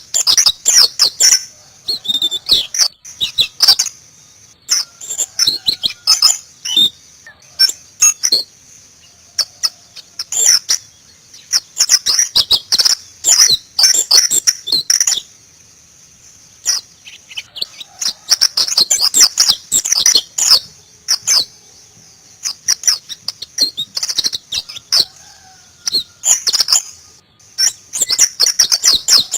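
White-eye (Zosterops, pleci) singing in the 'ngalas' style. The song comes in phrases of quick, high twittering chirps a few seconds long, with short pauses between them.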